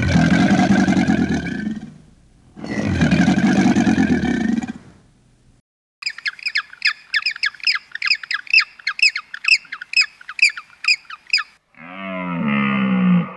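Two long, deep growling calls of crocodiles, then a gentoo penguin chick's rapid high-pitched begging chirps, several a second for about five seconds. A low moaning call starts near the end.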